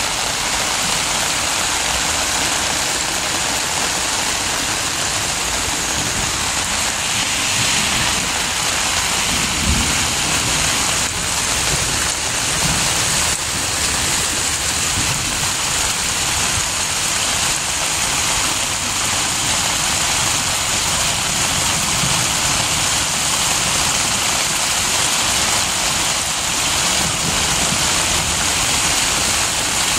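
Steady heavy rain hissing on a flooded street, with floodwater rushing along the gutter and splashing against a car's tyre. A low rumble runs underneath, with a brief low thud about ten seconds in.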